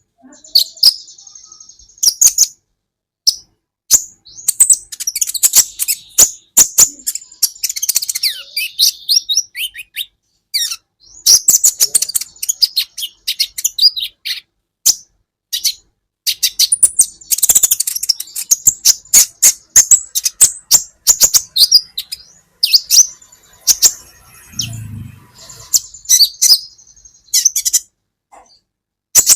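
Olive-backed sunbird (kolibri ninja) singing a fast, high-pitched run of chirps, twitters and trills with only brief pauses.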